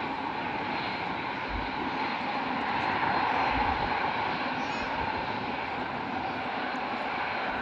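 Airbus A380 jet engines at takeoff power, a loud steady rushing roar that swells slightly about halfway through. A few short low thumps come through underneath it.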